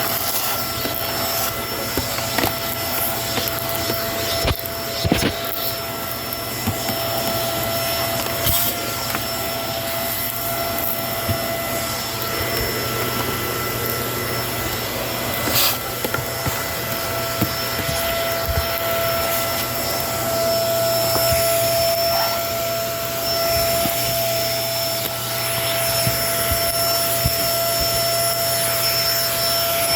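Kenmore vacuum cleaner running steadily, a constant motor whine over airflow hiss, with a few sharp clicks and crackles over it.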